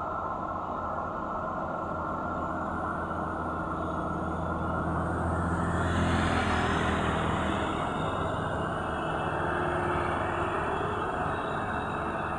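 Heavy truck engine labouring on a steep climb, growing louder as the vehicle passes close about six seconds in, then running on more steadily.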